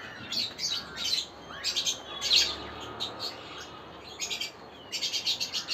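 Caged aviary birds chirping in repeated short bursts of quick, high chirps.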